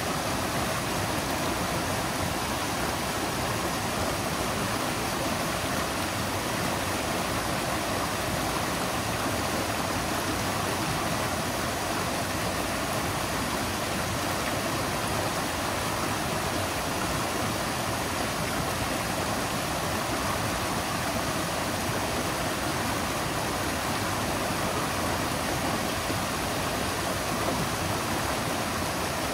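River water flowing and rushing over rocks, a steady, even rush with no change.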